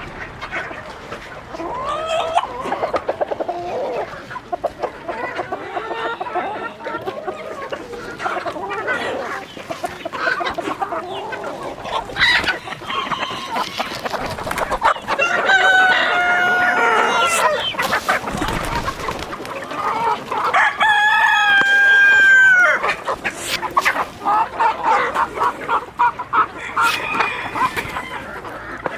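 Chickens clucking throughout, with a rooster crowing: two long crows, about halfway through and again about two-thirds of the way through.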